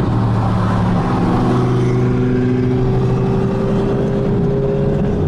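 Loud supercar engine noise, a steady engine tone slowly rising in pitch from about a second and a half in as a car accelerates.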